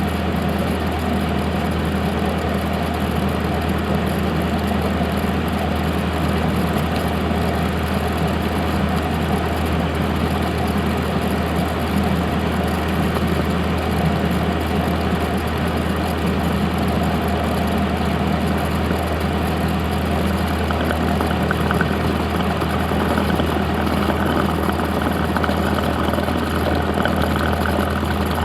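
Cessna 172's piston engine and propeller running steadily at low power, an even drone heard from inside the cabin.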